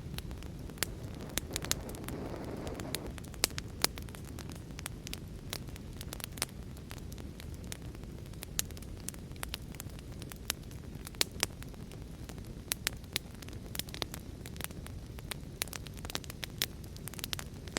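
Wood fire crackling, with sharp irregular pops, over a steady low rush of heavy rain. A brief swell of noise rises and fades about two seconds in.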